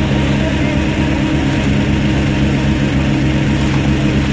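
Engine of a concrete mixer with pump running steadily at constant speed, a loud, even low hum.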